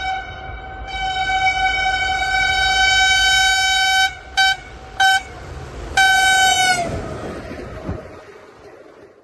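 Diesel locomotive horn sounding a long held single-note blast, then two short toots and a final blast that sags in pitch as it cuts off, over the rumble of the passing train, which then fades away.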